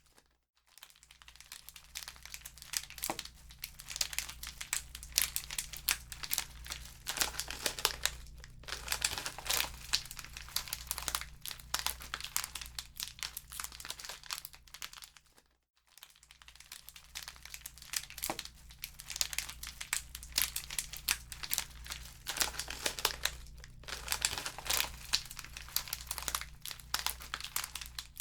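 Wood fire in a fireplace crackling steadily with many sharp pops, over a low steady hum. The crackle cuts out briefly at the start and again about halfway through.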